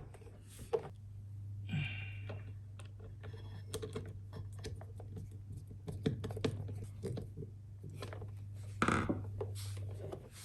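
Scattered light clicks and taps of a kids' bike rear carrier's parts being handled and fitted by hand, with a short squeak about two seconds in and a louder clatter near the end, over a steady low hum.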